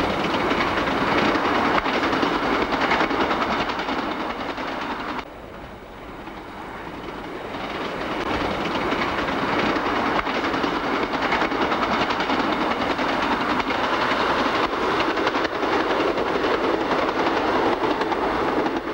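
A train running along the track, the sound of wheels on rails. The sound drops sharply about five seconds in, then grows louder again over the next few seconds.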